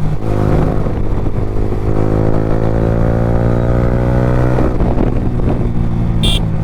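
Yamaha R15 V3's single-cylinder engine running through an Akrapovic exhaust with no dB killer, pulling under load while riding, its note climbing slowly in the middle. Wind rushes over the unshielded microphone throughout.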